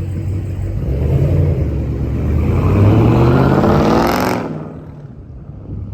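Motor vehicle engine accelerating, rising in pitch and loudness for about four seconds, then dropping away sharply and fading.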